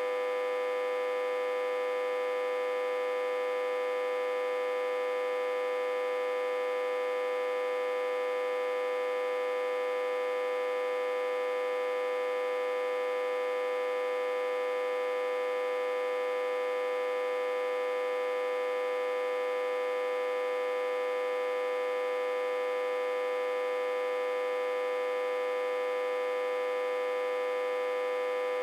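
Autotransformer humming steadily while reverse-connected to a step-down transformer on about 60–80 V input. It is one strong mid-pitched tone with many overtones above it, and it holds unchanged throughout.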